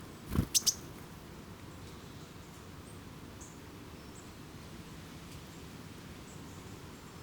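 Small wild bird calling: a soft low thump, then two sharp high call notes in quick succession, followed by a few faint, brief high chirps.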